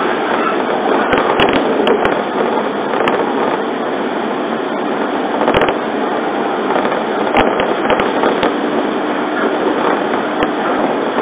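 Running noise inside a JR 115-series electric train carriage at speed: a steady rushing of wheels on rail, broken by scattered sharp clicks at uneven intervals.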